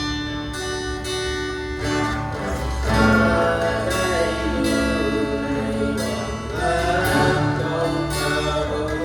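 Live Christian worship song played by a church band: guitar with other sustained instruments, and singing coming in about three seconds in.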